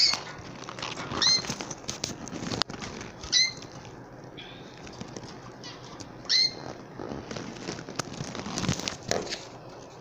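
Canaries giving four short, loud, high chirps, spaced a second or more apart, over steady rustling, clicks and wing flutters from the birds moving about.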